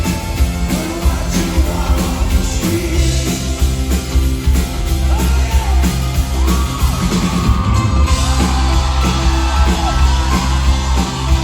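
Rock music with singing, heavy bass and some yells.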